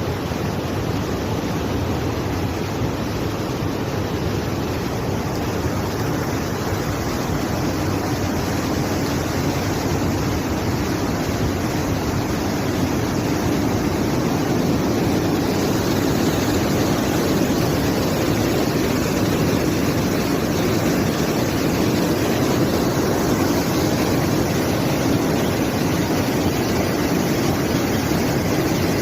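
Floodwater rushing down a mountain stream in spate after heavy monsoon rain: a loud, steady churning of turbulent water, swelling slightly partway through.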